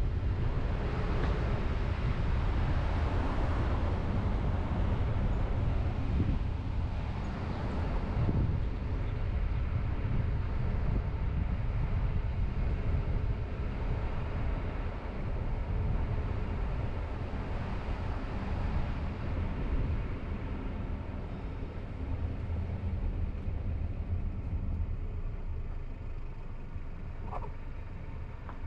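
Car driving along a road: a steady low rumble of engine and tyres, easing off a little in the last third.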